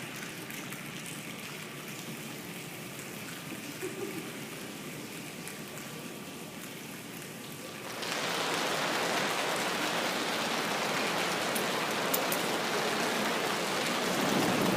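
A roomful of people making a rainstorm with body percussion: a soft, even hiss that jumps suddenly about eight seconds in to a loud, dense clatter like heavy rain, with heavier low thuds added near the end as the storm builds.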